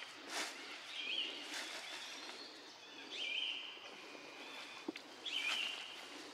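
A bird repeats a short high call that flicks up at its start, about every two seconds, over brief rustles and crackles in dry leaf litter as young macaques scuffle.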